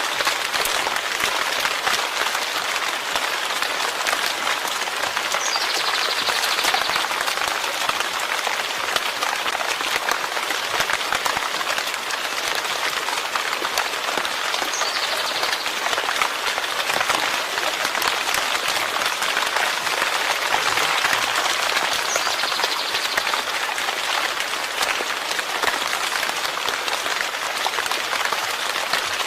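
Steady rain falling, a dense, even hiss of many small drops.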